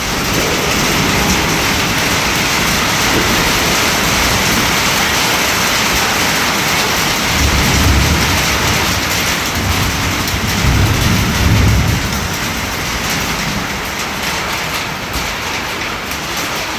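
Heavy rain falling steadily, with two low rumbles near the middle.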